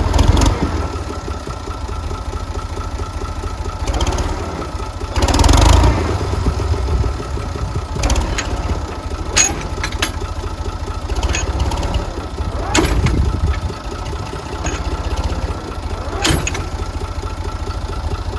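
Tractor engine running steadily, with a few sharp knocks or clanks scattered through.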